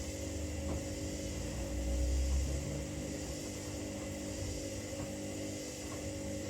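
Front-loading washing machines running mid-wash: a steady motor hum, with a swell of low rumble about two seconds in.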